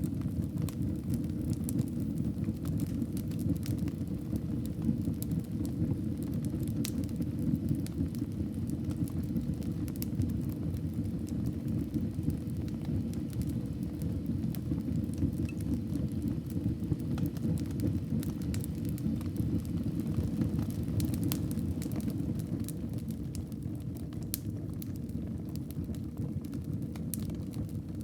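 Wood fire burning in a fireplace: scattered sharp crackles and pops over a steady low rumble of flames.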